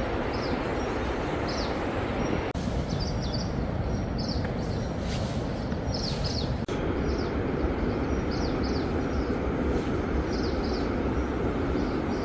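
Small birds chirping repeatedly in short high notes over a steady outdoor rushing noise.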